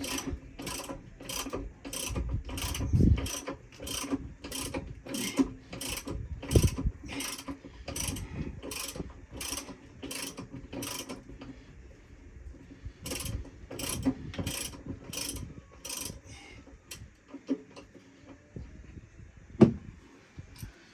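Hand ratchet wrench with a 3/4-inch socket clicking steadily, a few clicks a second, as a bolt is backed out. It stops about eleven seconds in, clicks again for a few seconds, and one sharp knock comes near the end.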